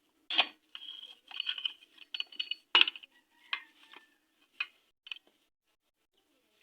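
Metal clinking and knocking as a crankshaft in its bearings is set into a motorcycle engine's crankcase: a handful of sharp clinks with a brief metallic ring, the loudest about three seconds in.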